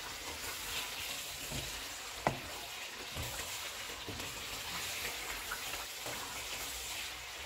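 Chicken in green masala sizzling in oil in a karahi while a wooden spatula stirs it, with one sharp click about two seconds in.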